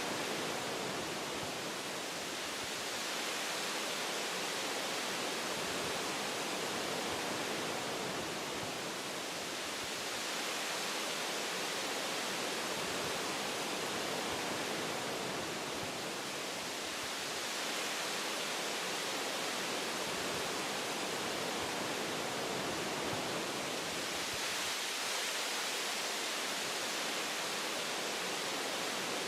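Wind blowing through forest tree branches: a steady rushing hiss of leaves and boughs that swells and eases gently every several seconds.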